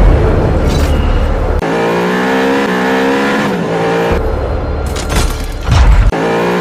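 Suzuki Raider 150 motorcycle engine running and being revved, its pitch rising and falling in steps.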